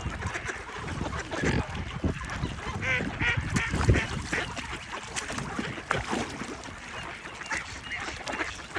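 Wintering swans and ducks on open water, honking and quacking in short calls, with a clear run of calls about three seconds in, over irregular splashing as the swans bathe.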